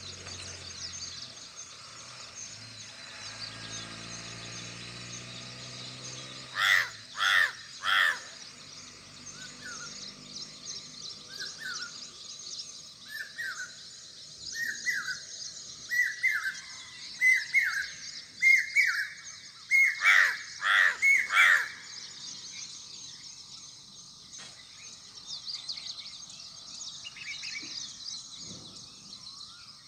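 Birds calling: two sets of three loud, harsh calls, with a run of short repeated call notes that come faster between them. Steady high-pitched twittering from other birds runs underneath.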